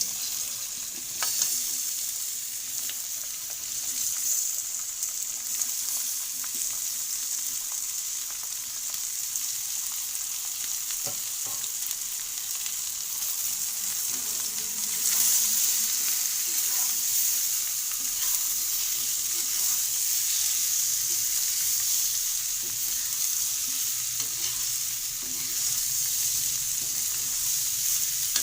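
Potatoes frying in hot spiced oil in a kadhai, sizzling steadily while they are stirred, with scattered clicks and scrapes against the pan. The sizzle grows a little louder about halfway through.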